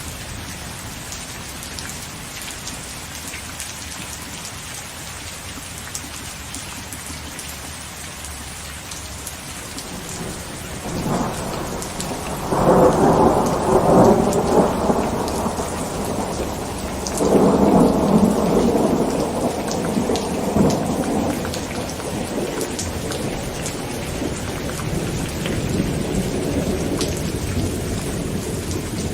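Heavy rain falling on a tent, a steady hiss with scattered sharp drop ticks. About eleven seconds in, thunder rolls in and swells twice through the middle, then eases off.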